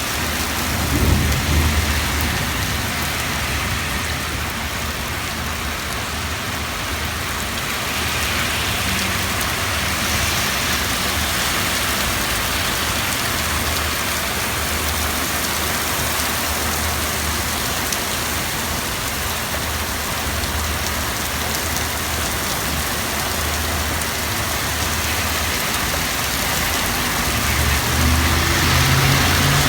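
Heavy rain falling steadily, a dense even hiss of rain on surfaces. Low rumbles swell briefly about a second in and again near the end.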